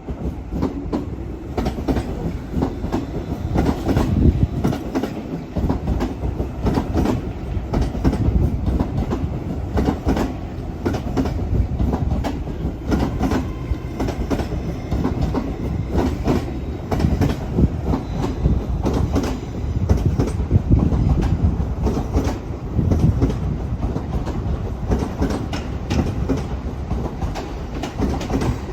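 A train running through the station, its wheels clattering over rail joints and pointwork in a steady stream of clicks and knocks for the whole time.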